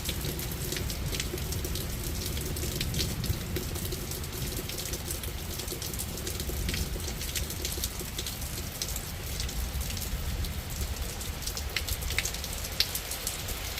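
Rain falling steadily in a thunderstorm, with many single drops ticking sharply against a surface close to the microphone.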